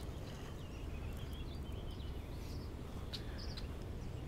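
Songbirds chirping in short, scattered calls over a low steady outdoor rumble.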